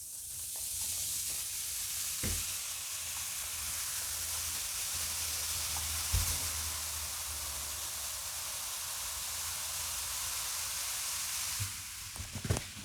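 Vinegar and baking soda fizzing around an old shower head left to soak off hard-water scale: a steady hiss that stops near the end. A soft knock comes about two seconds in and another about six seconds in.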